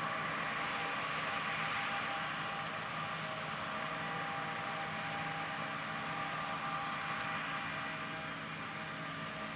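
John Deere S670 combines running steadily while harvesting soybeans: a continuous machinery drone with a fan-like hiss and a few steady whining tones. It eases slightly near the end.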